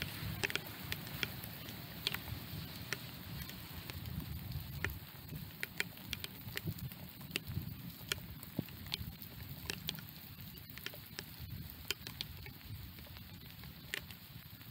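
Rain falling: scattered raindrops ticking irregularly on and around the microphone, over a steady low rumble.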